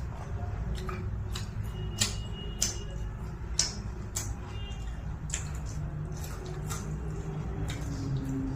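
Someone eating fried chicken lollipop: irregular sharp crunches and clicks of biting and chewing over a low steady hum.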